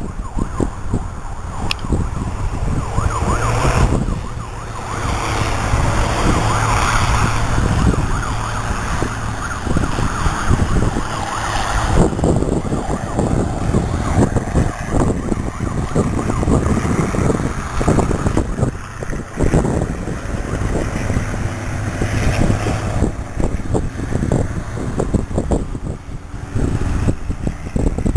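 Fire engine siren sounding over the noise of the moving truck, with wind buffeting the microphone.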